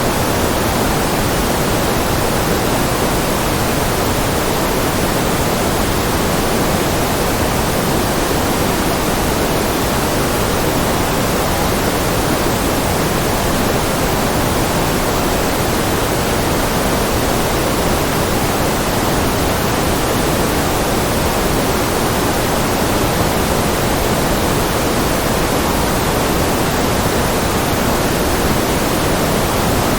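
Steady synthetic noise, a constant even hiss with no change or events, weighted toward the lower-middle frequencies like pink noise.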